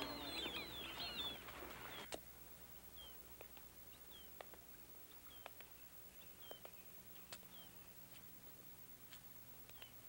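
Birds chirping densely, cut off abruptly with a click about two seconds in; after that only faint, scattered single chirps and a few soft ticks over a low hiss.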